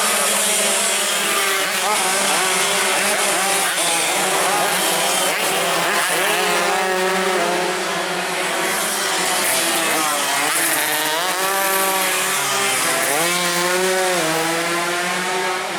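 Several tuned two-stroke racing motorcycles running hard, their high engine notes climbing and dropping in pitch again and again and overlapping.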